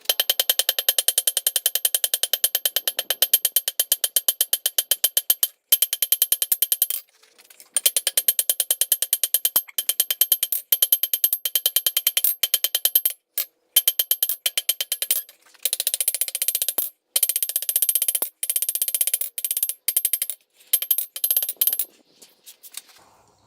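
Rapid, even hammer blows on hot steel bar over an anvil, each strike ringing, in runs of several seconds broken by short pauses. It is the end of a 12 mm rebar handle being forged into a scrolled hanging loop.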